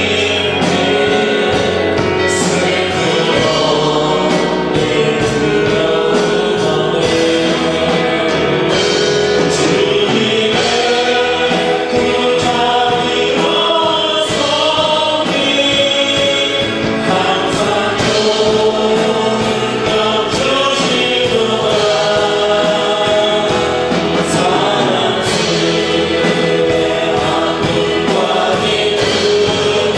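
Worship song sung by a group of voices with instrumental accompaniment and a steady beat.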